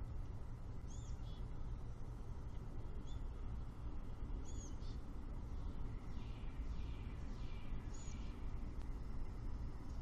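Outdoor morning birdsong: short high chirps scattered through, and a quick series of falling slurred notes a little past the middle, over a steady low rumble.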